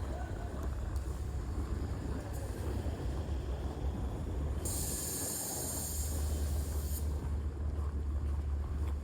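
Steady low rumble of city traffic and wind buffeting the microphone on a snowy street, with a hiss that starts and stops sharply, lasting about two seconds midway.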